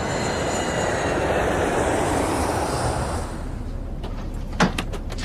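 Steady rushing noise of a jet airliner, loudest for the first three seconds and then easing, with a few sharp knocks near the end.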